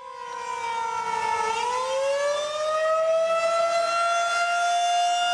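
Outdoor tornado warning siren wailing. It fades in on a steady tone, dips slightly, then rises in pitch over a second or so and holds.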